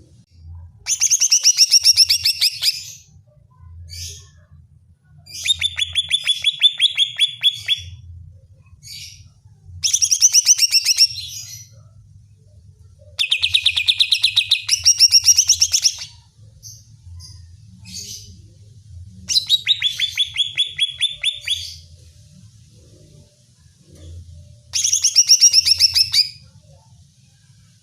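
Greater green leafbird (cucak ijo) singing loud, fast phrases of rapidly repeated rattling notes. There are about six phrases of two to three seconds each, with short pauses and softer single notes between them. It is the fired-up song that bird keepers play to provoke their own leafbirds into singing.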